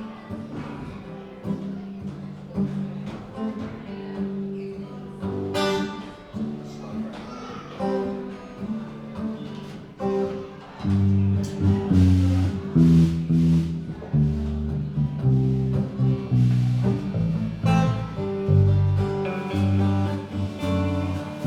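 A small band playing live: acoustic guitar picked and strummed, with low bass notes joining about halfway through and the music getting louder from there.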